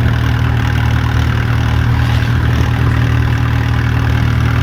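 Mahindra Yuvo 575 DI tractor's four-cylinder diesel engine running steadily at about 1300-1400 rpm through a New Holland silencer, pulling a heavily loaded trolley. The exhaust has a deep, harder note that sounds just like a JCB.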